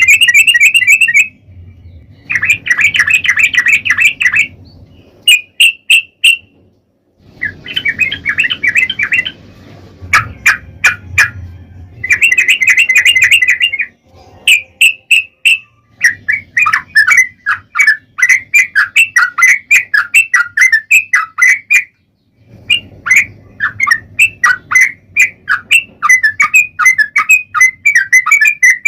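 Yellow-vented bulbul (trucukan) singing a long, rapid 'ropel' song: fast strings of chattering, bubbling notes in phrases of one to three seconds with short breaks between them, and a faint low hum underneath.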